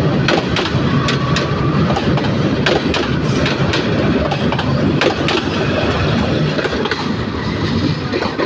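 Passenger train coaches rolling past at close range: a steady rumble of steel wheels on rail with frequent irregular clicks and clacks.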